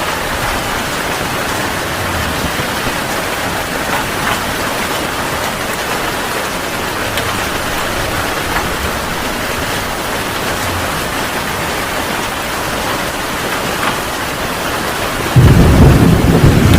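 Heavy rain falling steadily. About fifteen seconds in, a loud, low rumble of thunder breaks in suddenly.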